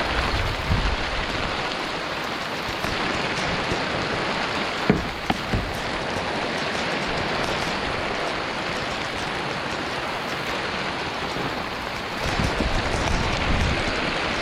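Heavy rain pouring steadily, a dense even hiss of downpour, with a few brief knocks about five seconds in.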